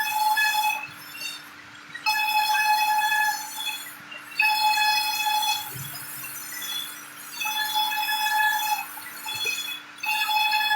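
Sawmill saw whining at a steady high pitch in repeated cuts of about a second each, roughly every two and a half seconds, over a steady machine hum.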